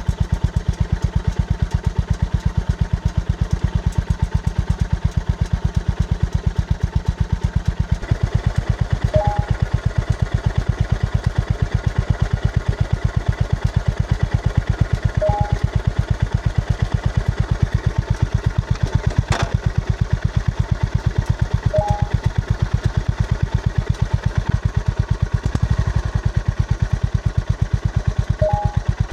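Honda GB350S's air-cooled single-cylinder four-stroke engine idling, with an even, steady beat of firing pulses. A short two-note chirp sounds four times, about every six or seven seconds, and a single sharp click comes about two-thirds of the way through.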